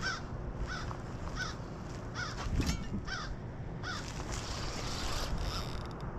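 A bird giving a series of about seven short calls, each rising and falling in pitch, repeated roughly once every three quarters of a second, over a steady low rumble of wind.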